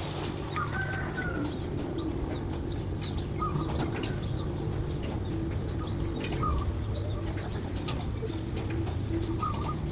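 Birds chirping in a garden: one bird repeats a short, high, falling chirp about twice a second, with a few lower calls from other birds, over a steady low rumble.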